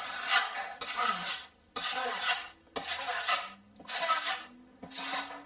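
Joint knife spreading GIB finish compound over a mesh patch on plasterboard, in repeated scraping strokes about once a second.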